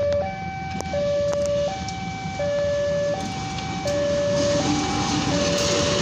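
Electronic two-tone warning alarm, switching between a lower and a higher pitch about every three-quarters of a second. It cuts off near the end as the rumble of an approaching train grows louder.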